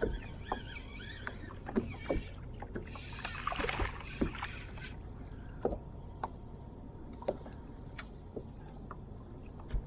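Small knocks and clicks from a fishing kayak and its gear on the water, scattered irregularly, with a short rushing noise about three and a half seconds in.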